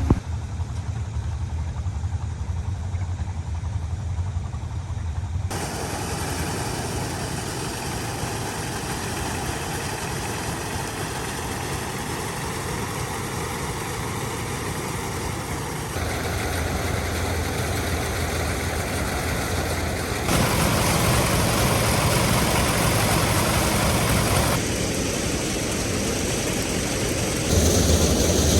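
Single-cylinder diesel engine of a công nông farm truck running steadily. Its loudness and tone change abruptly several times, at about 5, 16, 20, 24 and 27 seconds in.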